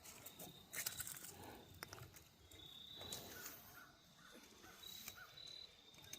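Near silence: faint outdoor ambience with a thin, broken high insect trill and a little light rustling.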